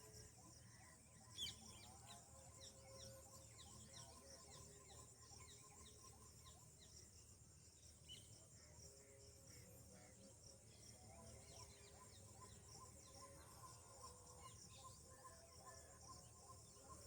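Faint outdoor nature ambience: many small birds chirping in short, quick high notes, over a steady high-pitched insect drone.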